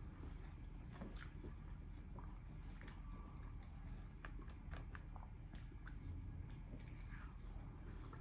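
A person chewing and biting smoked barbecue ribs close to the microphone: a scatter of short, irregular mouth clicks over a faint steady low hum.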